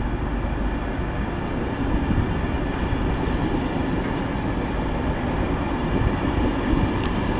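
Train running on the line past the platform: a steady rumble of wheels on rail, with a few sharp clicks just before the end.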